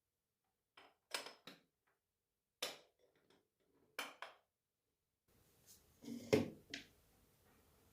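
Household objects being handled and set down: a series of short clatters and knocks, then a louder cluster of them near the end over a faint hiss.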